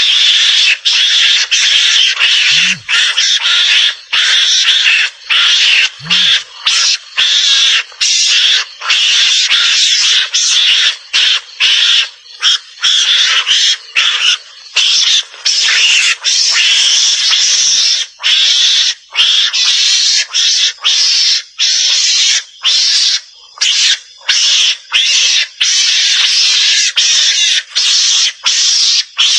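Recorded mongoose (garangan) lure call: harsh, hissy chattering in rapid runs broken by short gaps, kept up throughout, played back to draw mongooses out of cover.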